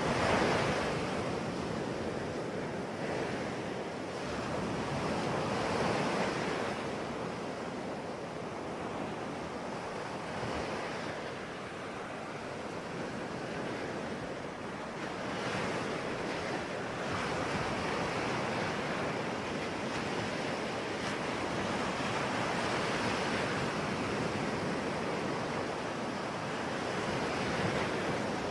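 Sea waves breaking and washing on a shore, a continuous surf noise that swells and ebbs every few seconds, with the loudest wave right at the start.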